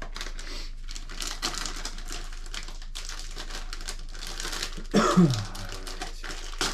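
Close-up handling noise of small motorcycle engine parts being wiped clean with a paper towel: steady rustling and crinkling with many light, rapid clicks. About five seconds in, a brief louder sound drops in pitch.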